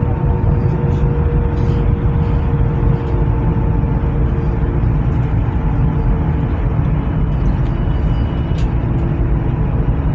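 Tram running between stops, heard from inside the car: a steady low rumble with a faint motor whine that fades out about two-thirds of the way through, and a few light clicks.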